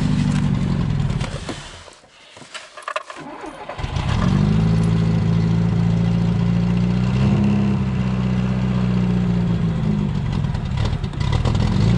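VAZ 2107 engine running after a cold start. The engine sound drops away about a second and a half in. A couple of seconds of scattered clicks and knocks follow, then the engine is running again from about four seconds in, its pitch rising briefly before it settles into a steady idle with small rises in speed.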